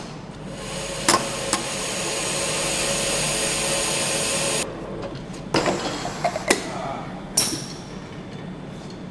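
Engine-assembly workshop: a few metal knocks, then a steady hiss that builds slightly and cuts off suddenly after about four and a half seconds, followed by a run of sharp metal clanks and knocks from tools and parts.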